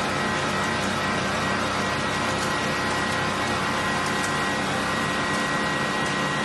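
A car engine running steadily at idle, its pitch unchanging.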